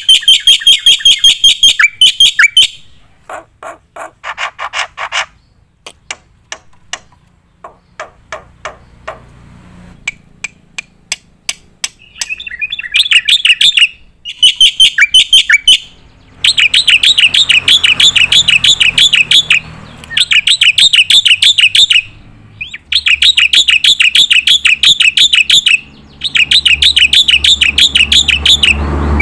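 Black-winged myna (jalak putih) singing loudly: long bursts of rapid, shrill repeated notes, about a dozen a second, broken by short pauses. A quieter stretch of scattered clicks and chips runs from about three to twelve seconds in.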